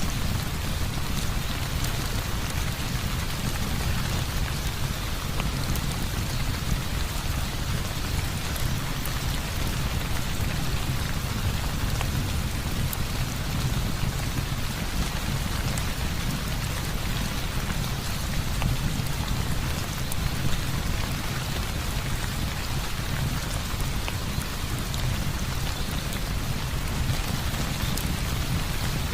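Heavy rain falling steadily, with a constant low rumble beneath it and scattered faint ticks.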